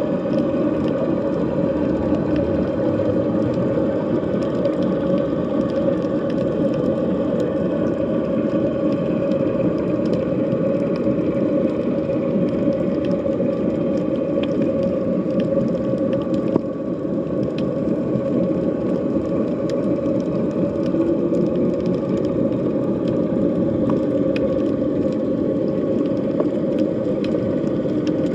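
Underwater sea ambience heard below the surface: a steady, dense low rumble with faint steady tones above it and scattered faint clicks throughout.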